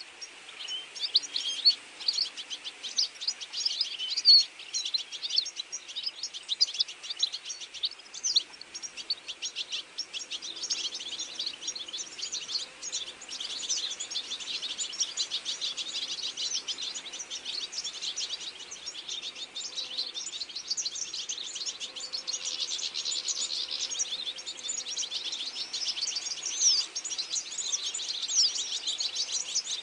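Many small birds chirping and calling at once: a dense, steady chorus of quick high chirps overlapping one another.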